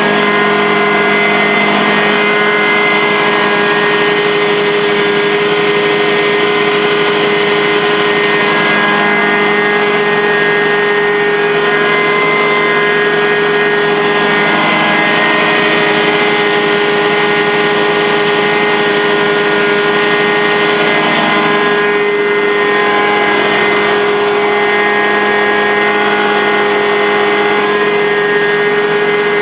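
Truck-mount carpet-cleaning extractor running steadily: a constant, loud machine drone with several steady tones, unchanging throughout.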